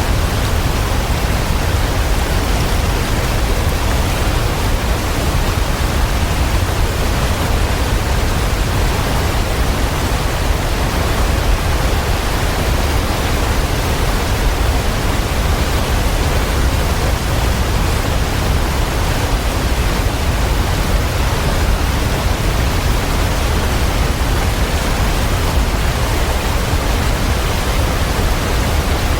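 Waterfall: a steady, even rush of falling water with a strong deep rumble underneath.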